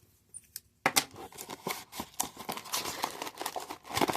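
Trading card hanger box being torn open, with a run of crinkling and tearing of its cardboard and wrapper starting about a second in.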